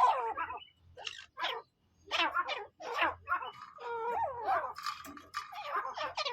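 Partridges (teetar) calling: a busy run of short, chattering calls that bend up and down in pitch, several overlapping, with brief pauses between bouts.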